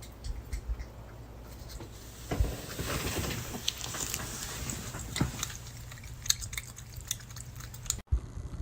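A dog's sounds with scattered clicks over a low steady hum, cutting off abruptly near the end.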